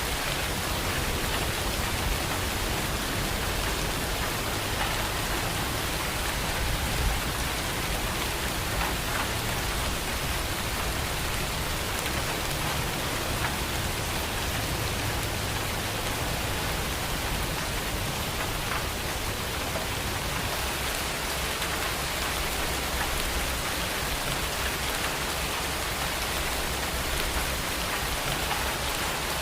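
Steady heavy rain falling, an even hiss with scattered drops pattering on surfaces.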